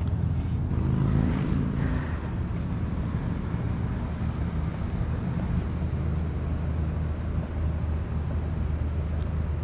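An insect, likely a cricket, chirping steadily in an even, high-pitched pulse of about two to three chirps a second, over a steady low rumble.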